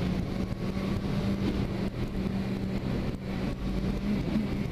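Suzuki Bandit motorcycle's inline-four engine running at a steady cruise, heard from the rider's seat.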